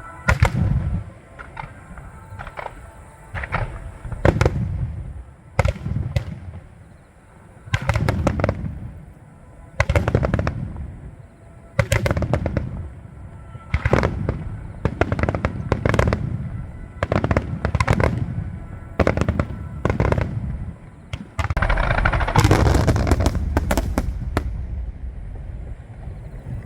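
Fireworks display: aerial shells bursting one after another, each a sharp bang followed by a low rumble, about every one to two seconds, with a dense crackling volley about 22 seconds in.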